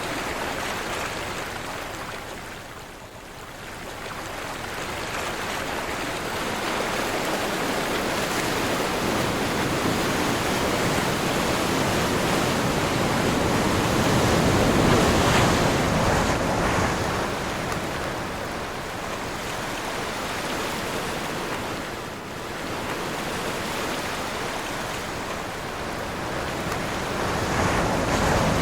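Ocean surf with wind: a continuous rush of waves that swells and ebbs, easing off about three seconds in and again about two thirds through, and loudest around the middle.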